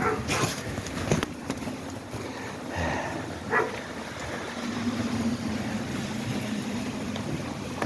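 A dog gives a short bark about three and a half seconds in, over a steady hiss of rain.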